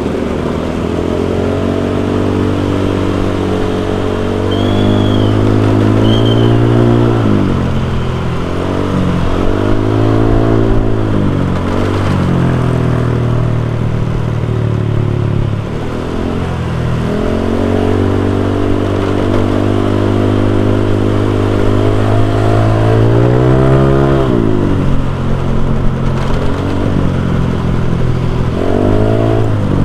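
Honda Vario 125 scooter's single-cylinder engine running through an aftermarket racing exhaust while riding, the note rising as it accelerates and falling as the throttle closes, several times over.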